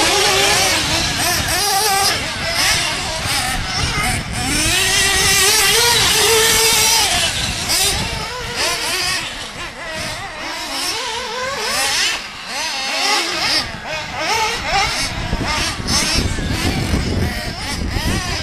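Picco .28 two-stroke nitro engine of a 1/8-scale Losi RC truggy revving up and down as the truggy drives, its high buzzing pitch rising and falling.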